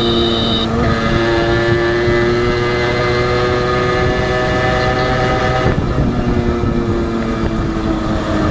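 Honda H100S two-stroke motorcycle engine running while riding, with a steady note. The pitch shifts about a second in, and the sound eases off about two-thirds of the way through, as when the throttle is rolled back.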